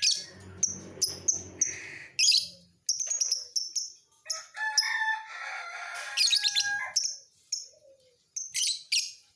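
Lovebird singing: rapid, sharp, high-pitched chirps, with a longer run of twittering warble in the middle.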